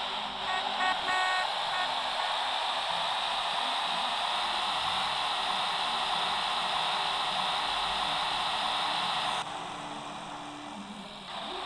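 Steady rushing vehicle noise, with a quick run of short high beeps in the first second or so; the rushing drops away sharply near the end.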